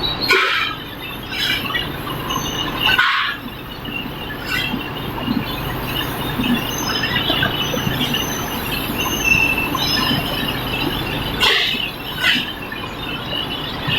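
Steady machinery noise from a billet reheating furnace plant, with several short metallic squeals from moving steel machinery, two of them close together near the end.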